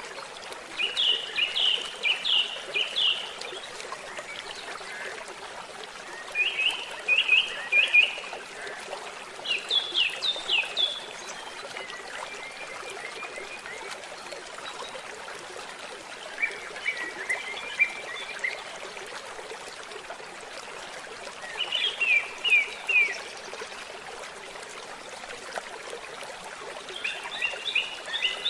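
Small stream trickling and splashing steadily, with a bird calling over it in short bouts of quick, high chirping notes, repeated every few seconds.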